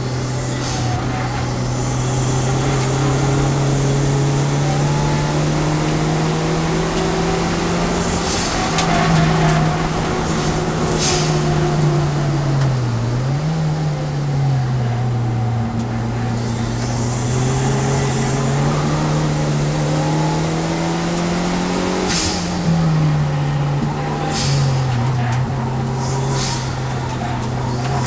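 Turbocharged Fiat Seicento race car's engine heard from inside the cabin while lapping a track, its note climbing under acceleration and dropping sharply at gear changes and braking, with several short hisses along the way.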